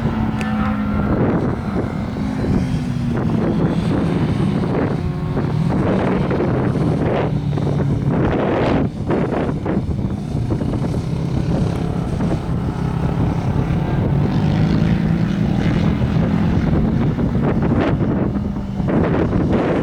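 Motorcycle engine running under load on a race course, its note dipping and rising with the throttle, mixed with heavy wind buffeting on the microphone.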